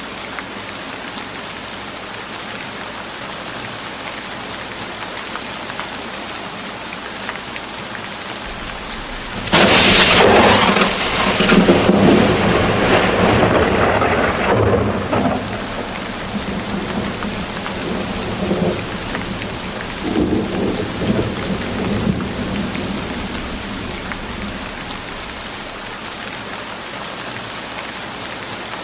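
Steady rain falling, broken about a third of the way in by a sudden sharp thunderclap that rolls into rumbling for several seconds, followed by fainter rolls of thunder a little later before the rain alone carries on.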